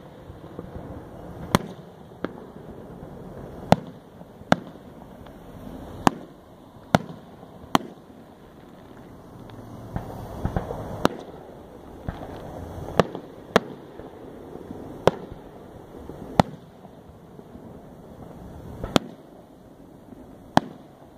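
Aerial fireworks shells bursting: sharp bangs at uneven intervals, about fifteen in all, every second or two, over a low background rumble.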